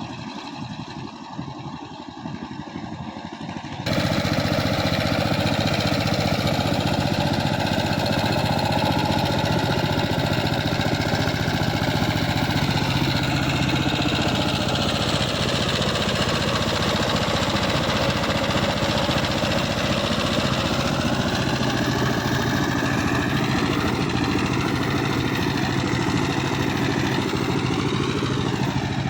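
Power tiller engine running steadily. About four seconds in, the sound jumps suddenly louder and fuller, then holds steady.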